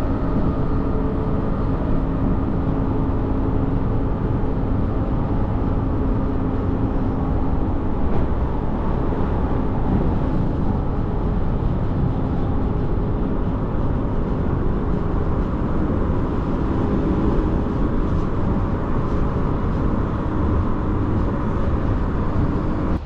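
Electric suburban passenger train running along the track, heard from on board: a steady rumble with a faint low hum.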